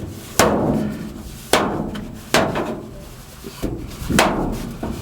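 Repeated hard knocks, about one a second, each followed by a short ringing decay, as during hand work cleaning out furnace ductwork.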